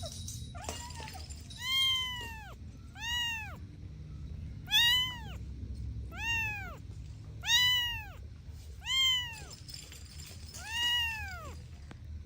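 A kitten meowing repeatedly, seven high meows each rising and then falling in pitch, about one every second and a half.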